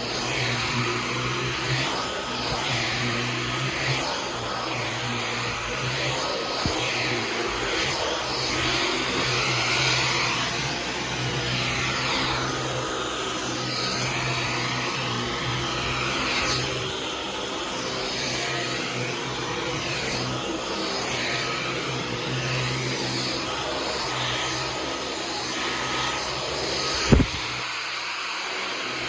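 Dyson V15 Detect cordless stick vacuum running steadily, its suction hiss rising and falling as the floor head moves. A single sharp knock near the end.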